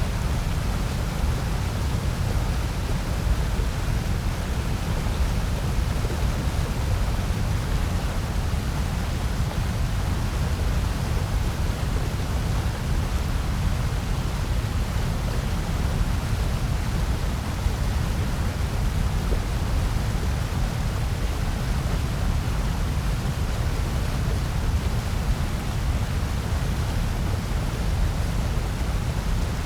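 Steady, unchanging generated noise sold as white noise. It is strongest in the deep low end and thins toward the top, so it sounds closer to pink noise than a flat hiss.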